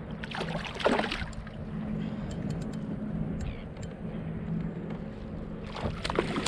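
Knocks, clicks and water sloshing at a kayak's side as a hooked gummy shark is fought close to the boat, over a steady low hum. One sharp knock comes about a second in, and the splashing picks up near the end.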